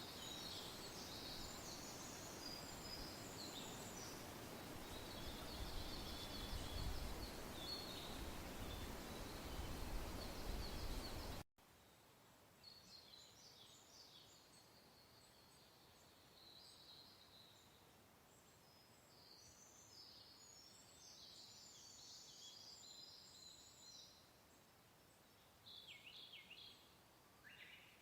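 Small birds chirping and singing over a steady rush of wind. About eleven seconds in the wind cuts off abruptly and the birdsong carries on more faintly, with a few louder calls near the end.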